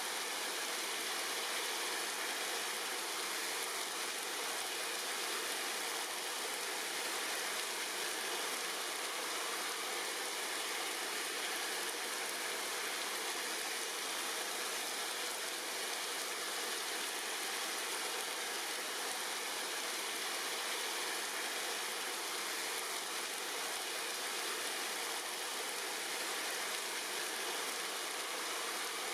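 Steady rain falling on tree leaves: an even, unbroken hiss of many drops with no single hits standing out.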